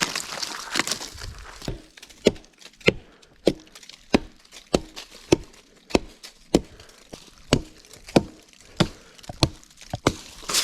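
Wood being chopped by hand: more than a dozen sharp, evenly paced strikes, about one every 0.6 seconds, beginning a couple of seconds in after some rustling and crunching.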